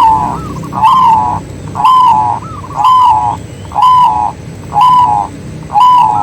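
Zebra dove (perkutut) calling: a short cooing note repeated about once a second, seven times.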